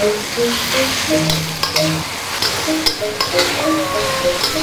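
Chilies, shallots, garlic and tomato sizzling in oil in a steel wok, stirred with a metal spatula that scrapes and clicks against the wok. A soft melody plays underneath.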